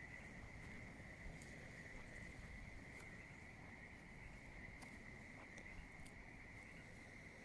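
Faint, steady high-pitched chorus of frogs calling together in a pond at night, a continuous creaking drone with a few faint ticks over it.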